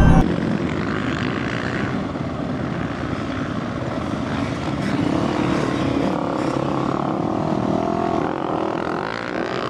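Dirt bike engines running over a steady rushing noise, with an engine note rising and falling in the second half.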